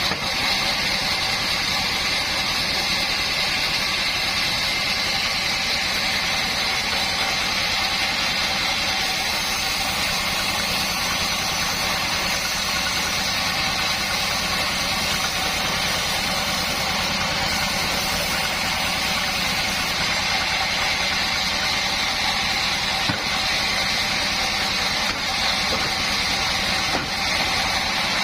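Homemade sawmill's board saw machinery running steadily: an even mechanical drone with a high whine, unchanging throughout.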